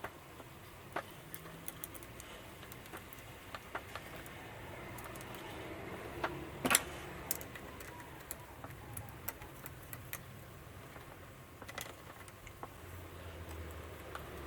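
Scattered small clicks and taps of a screwdriver and small metal parts being handled while refitting the Slo Mo gear unit to a model steam locomotive, with one sharper knock about seven seconds in.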